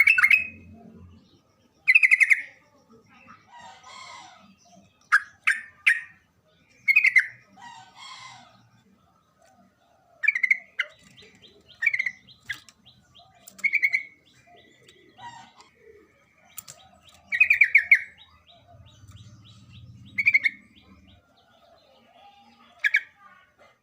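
Sooty-headed bulbul (trucukan) singing: short, loud, bubbly phrases, repeated every second or few seconds. Fainter chirps sound between them.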